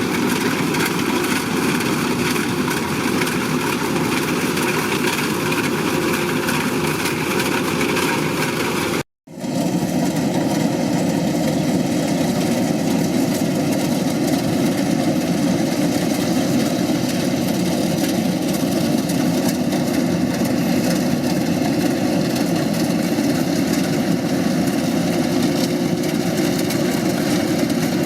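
Kubota DC-105X combine harvester running steadily with a continuous engine and machinery drone. About nine seconds in the sound cuts out for a split second and comes back with a slightly different tone.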